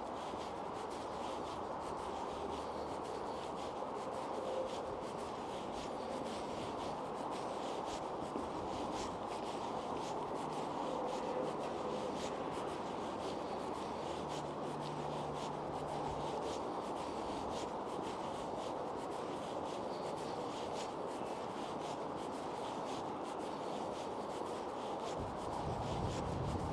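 Footsteps on pavement over a steady outdoor background noise, with faint scuffs and ticks.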